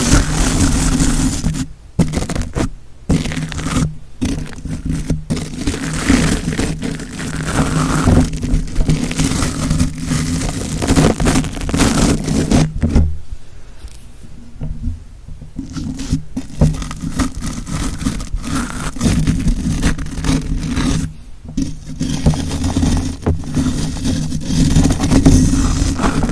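Close-miked scraping made as an ASMR trigger, rasping on and off with a few short pauses and a quieter stretch about thirteen to sixteen seconds in.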